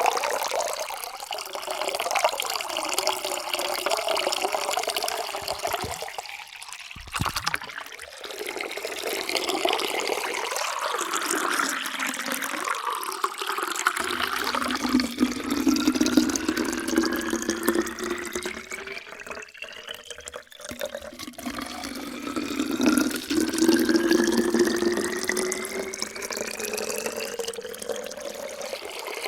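Water being poured into a container, the splashing pitch rising steadily as the vessel fills. The rise happens twice, with a second filling starting about two-thirds of the way through.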